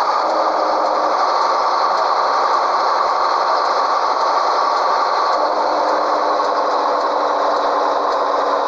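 Scania 113H truck's 11-litre straight-six diesel engine running steadily under way, a continuous loud mechanical noise.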